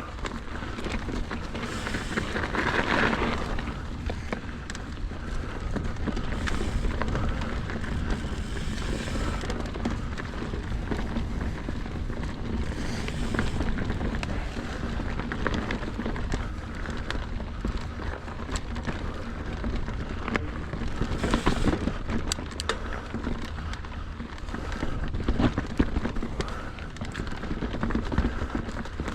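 Mountain bike rolling over frozen dirt trail: steady tyre noise with the bike's chain and frame rattling and scattered clicks and knocks over the rough ground. It gets louder and rougher about three seconds in and again about two-thirds of the way through.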